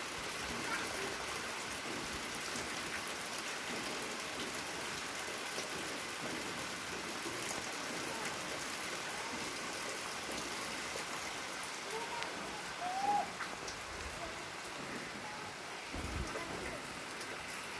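Steady rain falling, with a short high call about thirteen seconds in.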